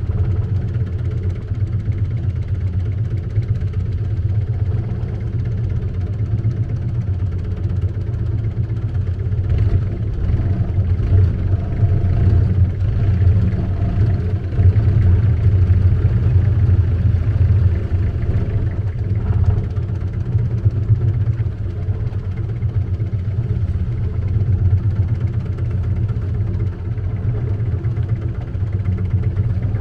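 Long-tail boat's engine running steadily at cruising speed, a constant low drone.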